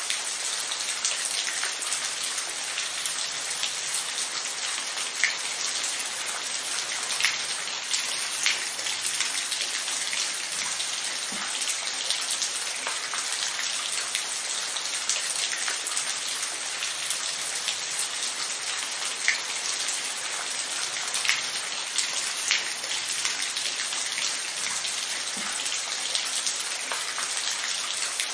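Steady rain falling, a constant hiss with individual drops ticking sharply here and there on a hard surface.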